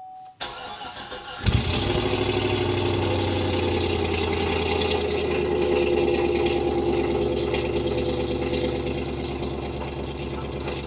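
Old pickup truck's engine cold-started: the starter cranks for about a second, the engine catches with a sharp burst about one and a half seconds in, then runs steadily.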